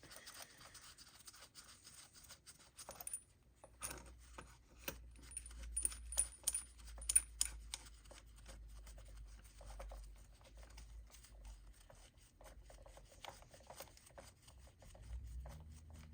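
Faint scraping and light metallic clicks of a cam bearing puller tool being assembled by hand, the flat washer and nut fitted onto its threaded shaft. A few sharper ticks come in the middle.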